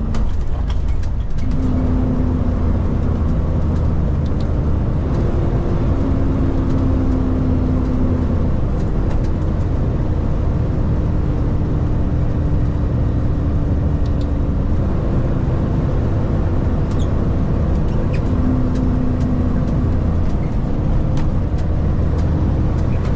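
Kenworth K200 cabover road train cruising on the highway, heard from inside the cab: its Cummins diesel drones steadily over road and tyre rumble. The engine's tone steps up and down in pitch a few times, with a step up about a second in and another about fifteen seconds in.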